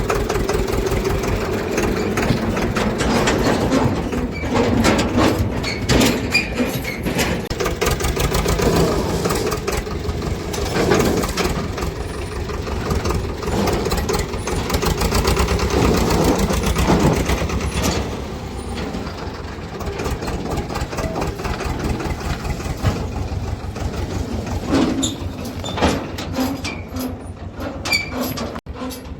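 Swaraj tractor's diesel engine running with a fast, even chug, with scattered knocks and rattles over it.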